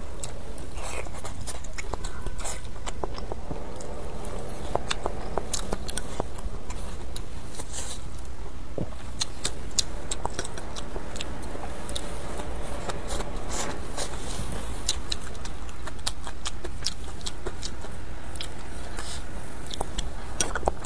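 Close-miked chewing and biting of spicy hotpot food, wet mouth sounds with many short sharp clicks, over a steady low hum.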